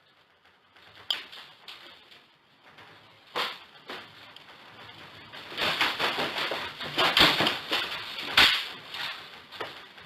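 Objects and the building rattling and knocking as they are shaken by an earthquake: a few scattered knocks, then a dense clatter with loud bangs about seven and eight and a half seconds in.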